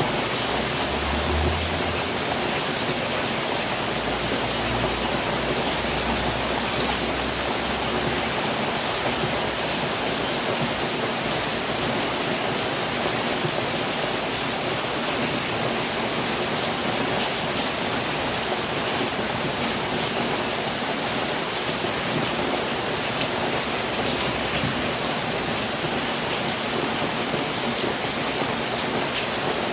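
Steady, even rain falling on a house roof. A faint low rumble comes and goes in the first few seconds and again later on.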